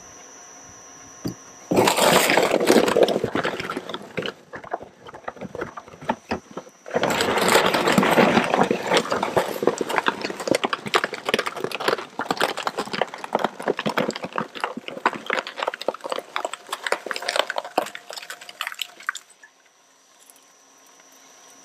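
Shredder crunching and cracking hard plastic toy truck parts: a short loud bout about two seconds in, then a long run of dense snapping and crackling from about seven seconds. Near the end it drops back to the shredder running lightly with nothing in its blades.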